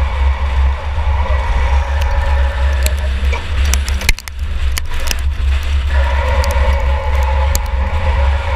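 Engine of a 2004 Chevy Impala enduro race car, heard from inside the car, running under load with a heavy low rumble. About four seconds in, a burst of sharp knocks and rattles comes as the engine note briefly falls away, and the engine picks back up around six seconds in.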